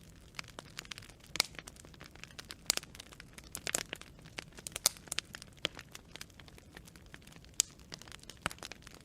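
Campfire of burning wood branches crackling: irregular sharp pops and snaps over a faint steady hiss of flame.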